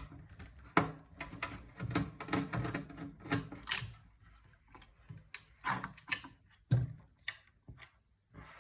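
Irregular clicks, knocks and light clatter from computer parts being handled and worked loose by hand. The sounds come thickly for the first half, then as a few scattered clicks.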